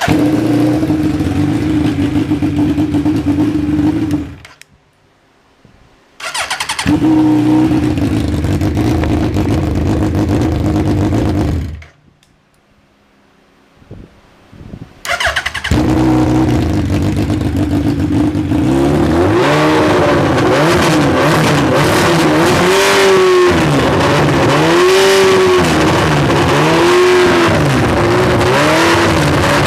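Suzuki Hayabusa 1299 cc inline-four engine, out of the bike, running at a steady idle, stopping twice and being restarted. After the second restart it is revved up and down again and again, about once every two seconds.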